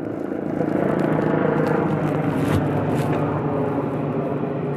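A steady engine running, its hum getting louder about a second in, with a couple of brief clicks.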